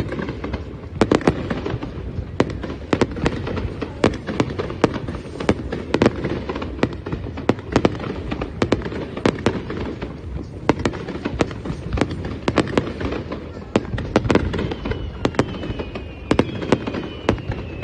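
Fireworks display: a rapid, irregular run of bangs and crackles, several a second, over a steady low rumble.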